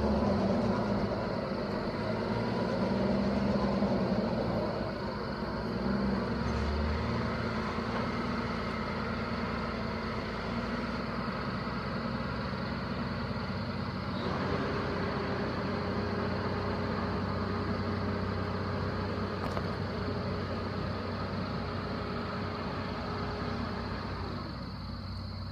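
Heavy vehicle engine running steadily, with a change in the sound about halfway through where a steady hum comes in.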